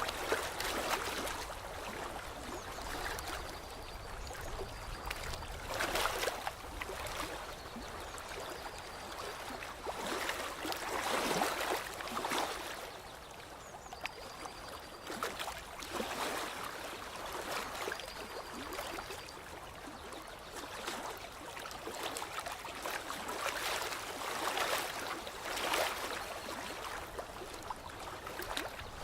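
Water lapping and trickling, swelling and easing every couple of seconds, with a few faint, short, high thin tones now and then.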